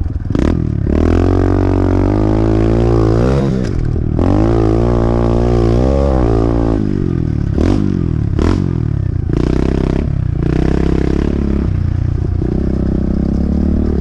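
Mini bike engine being ridden hard, its pitch climbing and dropping again and again, broken several times by brief cuts in the engine note.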